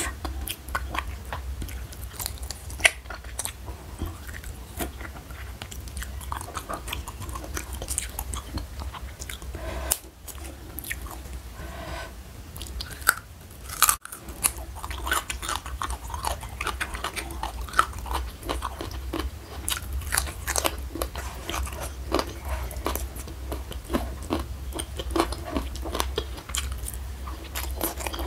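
Close-miked eating: wet chewing and crunchy bites of raw leafy greens, dense irregular crackles and clicks throughout, over a steady low hum.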